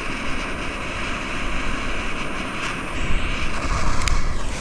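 Steady roaring hiss of a gas torch flame held to a newspaper paper-firewood log to light it, with a few faint crackles about four seconds in.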